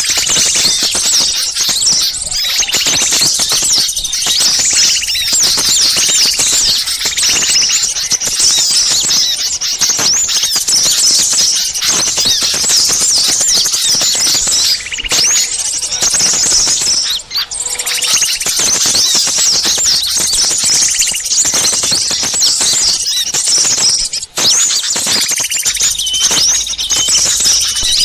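A dense chorus of many small songbirds chirping and twittering over one another, high-pitched and unbroken: a layered bird-lure recording of agitated small birds. Two brief drop-outs come about two-thirds of the way through and near the end.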